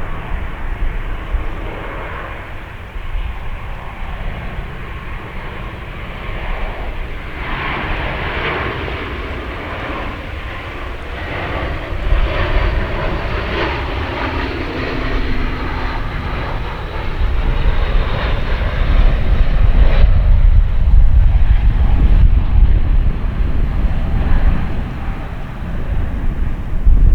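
Jet airliner engines, a steady rumble with a whine that builds in the middle and grows louder and heavier in the second half, mixed with low wind buffeting on the microphone.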